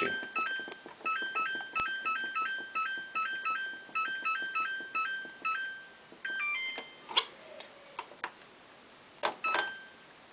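Samsung WF8804RP washing machine control panel beeping: a quick run of short electronic beeps, about three a second, for some five seconds. A brief stepping run of tones follows, then a few sharp clicks and one last beep near the end.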